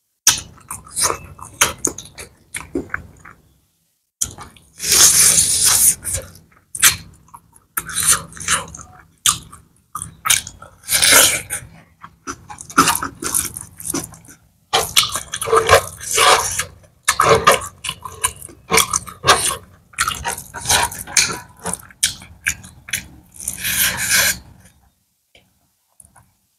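Close-up chewing and lip-smacking of someone eating chicken curry and rice, with wet squelching as a bare hand mixes the rice and curry on a tray. The noises are irregular throughout, with short pauses now and then.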